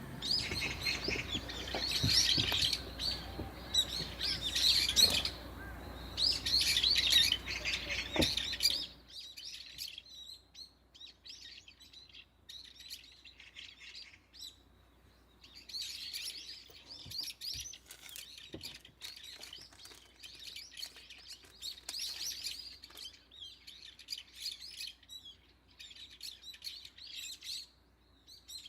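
Small birds chirping in repeated bursts of quick high chirps. For the first nine seconds or so they sit over a steady low noise with a few sharp clicks, which cuts off abruptly.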